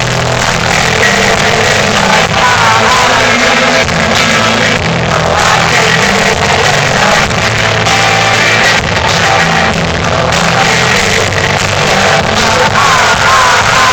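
Rock band playing live with a lead singer, steadily loud throughout; the recording is poor-quality, dense and muddy.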